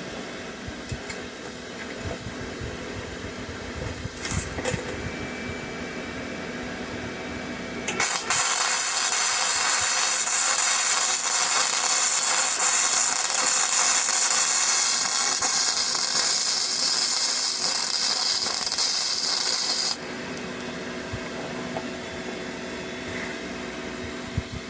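Flux-cored arc welding with a Parkside PMSG 200 A1 welder: the arc starts suddenly about eight seconds in, crackles and hisses steadily for about twelve seconds, and cuts off sharply when the bead is stopped.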